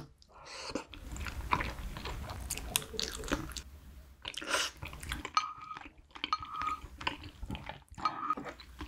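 Close-miked chewing of braised cutlassfish as the flesh is eaten off the bones, with small wet clicks and crackles. In the second half come three short ringing clinks of chopsticks against a small steel bowl.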